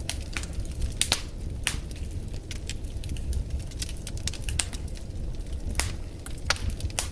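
Wood fire burning in a fireplace: irregular crackles and sharp pops over a low steady rumble of the flames.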